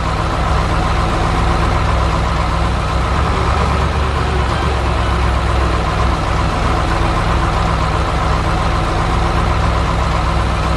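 Truck engine idling steadily: a deep, even drone with no revving.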